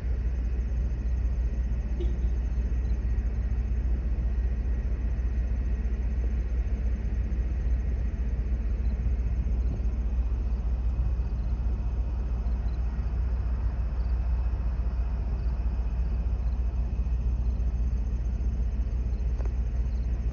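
Steady low rumble that holds unchanged throughout, with a faint tick or two.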